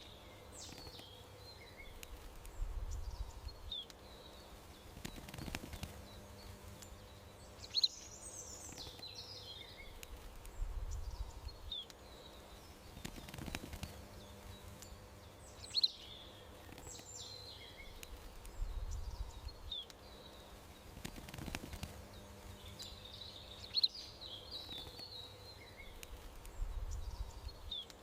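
Small songbirds chirping and trilling over a faint outdoor background, with a sharp high chirp and a soft low rumble among the calls; the same sequence of calls repeats about every eight seconds.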